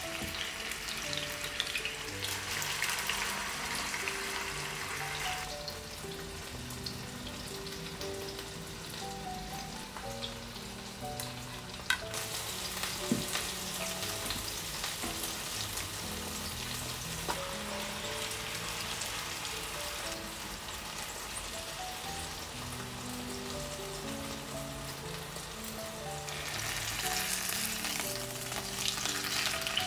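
Minced garlic and then chicken pieces frying in oil in pans: a steady sizzle, lighter through the middle and louder again near the end.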